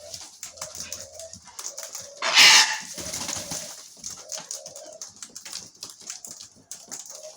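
Pigeons cooing at the seed spot, short low coos repeating every half second to a second. About two and a half seconds in comes a brief loud rushing noise.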